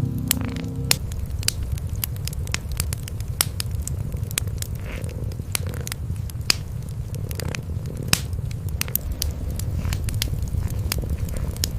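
Wood fire crackling with frequent sharp pops, over the steady low purring of domestic cats.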